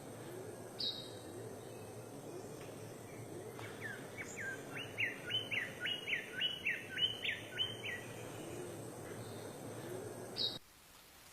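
A bird calling: a run of about a dozen quick repeated chirping notes, roughly three a second, over a steady background hiss, with a single short high note near the start and another near the end; the background noise cuts off abruptly just before the end.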